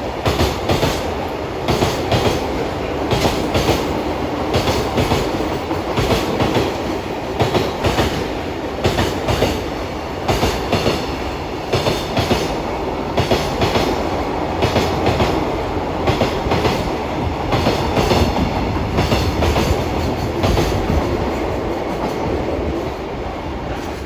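Koki container wagons of a JR Freight container train rolling past at speed, their wheelsets clacking over rail joints in quick groups about once a second, over a steady rumble of wheels on rail.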